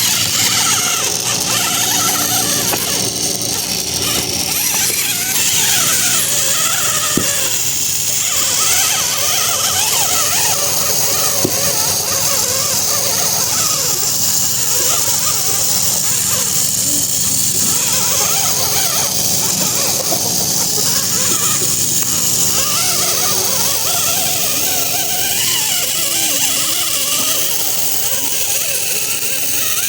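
Small electric motor and gearbox of a toy RC tractor running, a steady whine with a hiss, plus wavering squeals that rise and fall in pitch.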